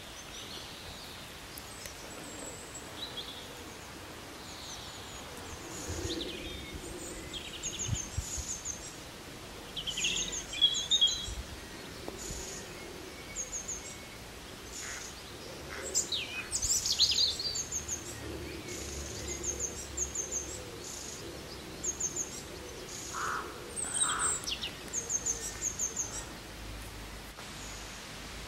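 Birds singing and chirping against a steady outdoor background hiss; short high chirps repeat in quick little groups throughout, with a few louder bursts of calls.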